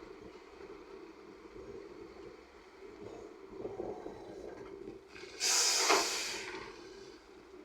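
Heavy earthmoving machinery engines running steadily. About five seconds in, a sudden loud hiss cuts in, lasts about a second and fades away.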